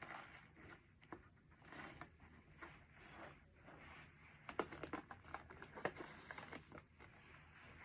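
Faint rustling and light clicks and taps of hands handling gift-basket items and wrapping, with a quick run of small clicks in the second half.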